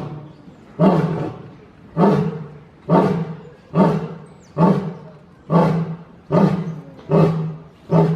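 Lion finishing a roaring bout with a run of deep, heavy grunts, about one a second and coming slightly faster toward the end, each starting suddenly and fading away.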